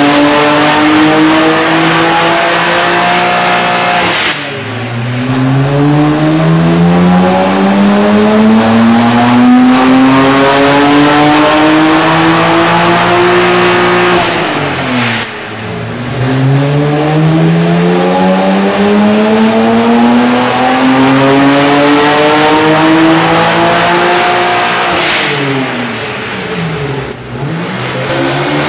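BMW 135i's twin-turbo 3.0-litre straight-six, with catless downpipes, cat-back exhaust and twin intakes, making full-throttle pulls on a dyno. Each time the revs climb steadily for about ten seconds, then drop away sharply as the throttle is lifted, about three times over.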